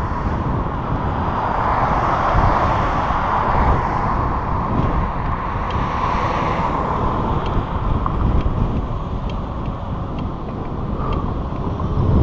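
Wind buffeting the microphone over the steady rolling rumble of a bicycle on a trail, with faint light ticks in the second half.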